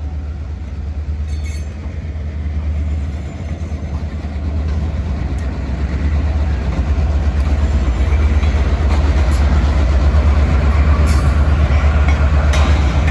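Freight train rolling past as it departs, getting steadily louder, with a heavy low rumble and a few sharp clicks of wheels over the rail joints.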